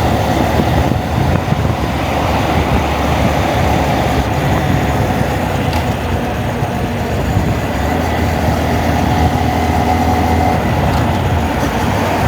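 Wind buffeting an unshielded camera microphone on a moving motorbike, over the steady running of a Honda Monkey's small single-cylinder four-stroke engine. The level holds steady throughout.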